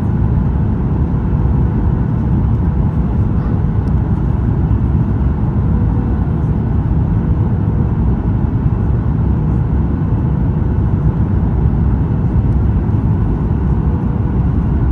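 Steady, loud low rumble of a Boeing 737 MAX 8 heard from inside the passenger cabin during landing, with a faint steady hum over it.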